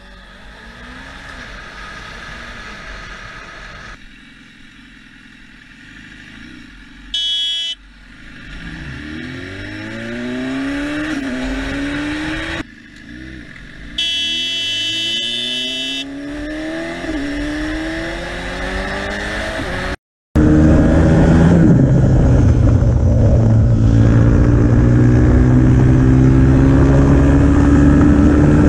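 A car engine accelerating again and again, its pitch sweeping upward through the gears, with a high steady tone sounding briefly about seven seconds in and again for about two seconds near the middle. After a sudden cut about two-thirds of the way through, a much louder engine runs steadily.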